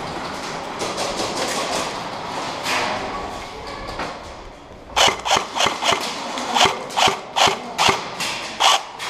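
Airsoft gunfire indoors: a string of about a dozen sharp cracks, two to three a second, starting about halfway through, after a few seconds of muffled rustling.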